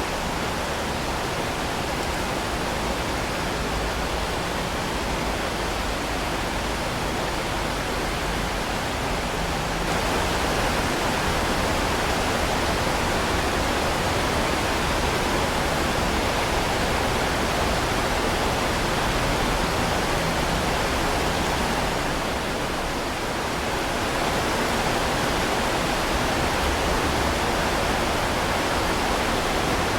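Heavy rain falling in a steady, dense hiss, growing a little louder about ten seconds in and easing briefly a little past the middle.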